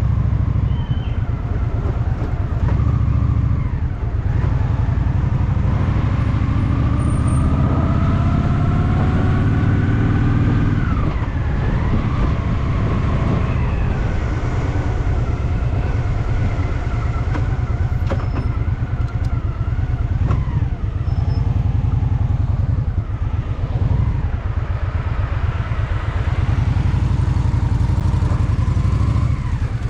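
Honda Shadow VT750's V-twin engine running on the road. Its pitch rises as it accelerates from about 6 to 11 seconds in, drops at a gear change, climbs again briefly, then settles into steady running.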